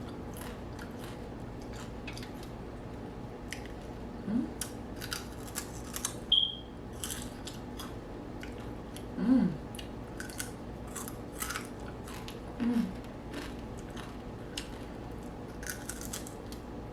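A person eating the tail of a whole deep-fried catfish close to the microphone: crisp crunching and wet chewing clicks and smacks throughout. Four short low hums are heard, at about four, nine, twelve and a half, and seventeen seconds.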